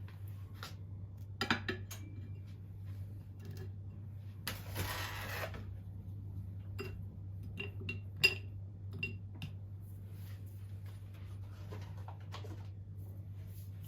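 Light clinks and knocks of dishes and utensils being handled, some ringing briefly. There is a brief rush of noise about halfway through, and the loudest clink comes just after 8 seconds.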